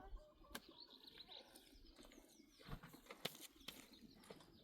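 Faint bird chirps and a few sharp clicks over near quiet.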